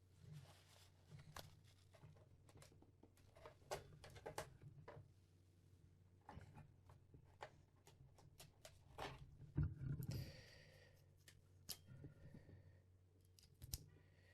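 Faint handling noises: scattered light clicks and short rustles as a headphone cable and its jack plug are handled and plugged in, over a low steady hum.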